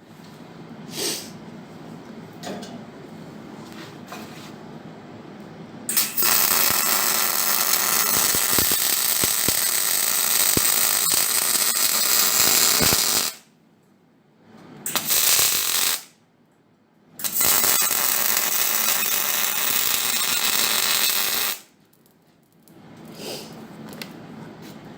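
Arc welding on sheet steel: three bursts of steady crackling, a long one of about seven seconds, a short one and a four-second one, each starting and stopping abruptly, with scattered small clicks before the first.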